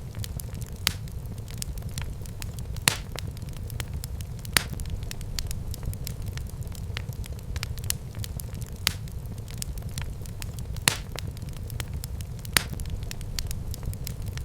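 Wood fire burning in a fireplace: a steady low rumble of flames with irregular crackles and a few sharp, louder pops.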